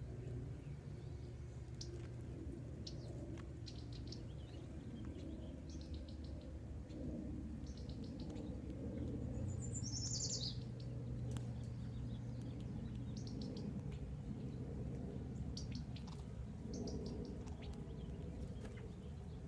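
Birds chirping in short, high, trilled calls every second or two, with one louder call sliding downward about ten seconds in, over a steady low rumble.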